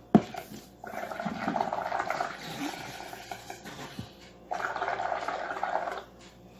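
Soapy water bubbling as air is blown into it to build up a foam of bubbles, in two long blows with a short pause between. A sharp click comes just before the first blow.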